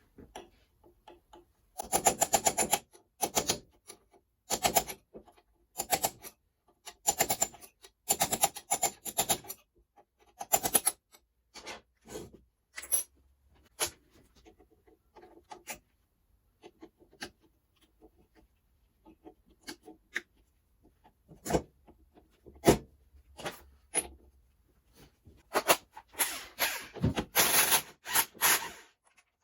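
Irregular hand-handling noises at a workbench: bursts of rubbing, scraping and rustling, each lasting about half a second to a second, with short quiet gaps between them, as parts and packaging are handled.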